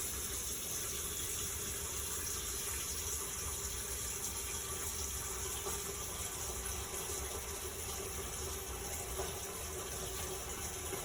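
Kitchen tap running steadily into the sink and down the drain. The water is on to leak-test the seal of a newly installed garbage disposal.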